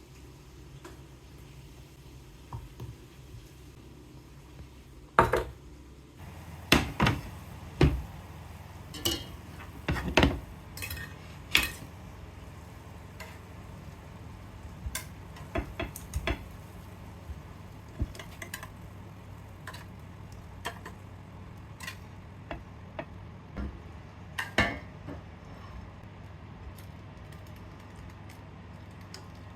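Dishes and cutlery being handled: a string of separate clinks and knocks, loudest in the first half, over a low steady hum that starts about six seconds in.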